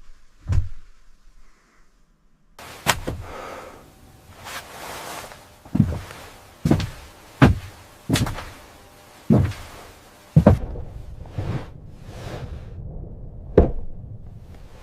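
A run of heavy knocks, about one a second, over a steady background hiss.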